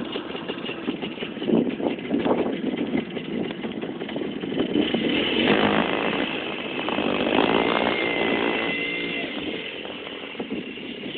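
Minsk motorcycle's two-stroke single-cylinder engine running, its pitch rising and falling around the middle.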